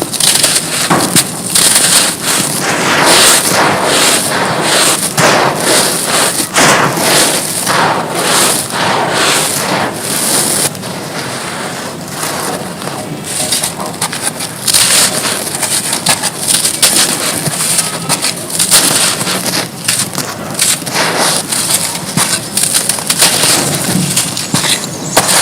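Chunks of dry, crumbly material being crushed and broken apart, giving dense crunching and crackling. The sound eases off for a few seconds around the middle, then picks up again.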